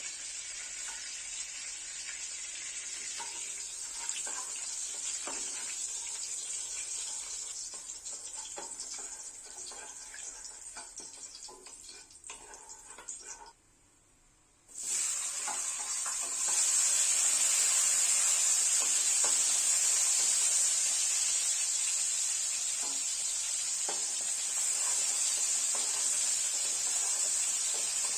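Food sizzling in hot oil in a pan, with short taps and scrapes of a utensil stirring it. The sizzle fades, cuts out for about a second halfway through, then comes back louder.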